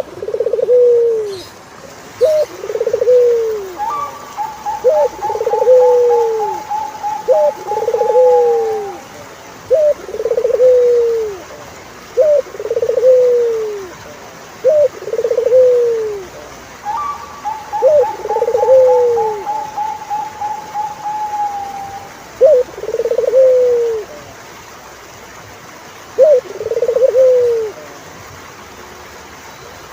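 Turtledoves cooing: a short pip and then an arched coo, repeated over and over every second or two. Twice a long, rapid, higher-pitched trill runs for several seconds over the coos.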